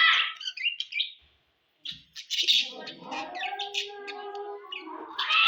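Budgies chirping and chattering in quick, busy calls, broken by a short silent gap about a second and a half in.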